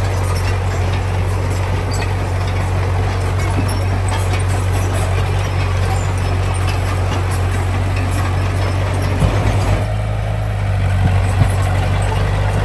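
Heavy diesel engine of earthmoving machinery running steadily with a deep hum, with a few knocks about nine seconds in.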